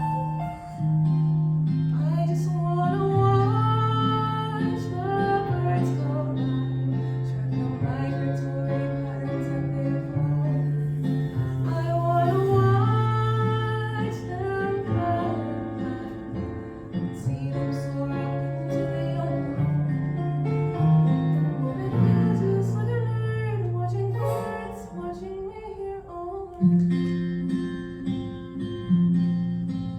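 A woman singing a gentle song melody over instrumental accompaniment, with long held low notes under the voice. The sound thins out briefly about 25 seconds in before the music picks up again.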